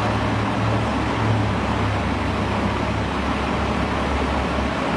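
A heavy vehicle engine running steadily amid street traffic noise, its low tone easing off about three seconds in.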